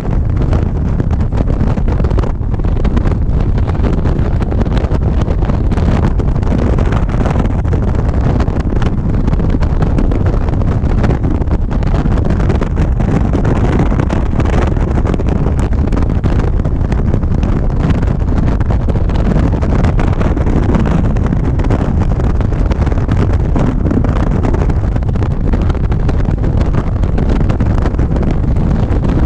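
Wind buffeting the microphone on a moving motorcycle, mixed with the motorcycle's engine and road noise at a steady cruise.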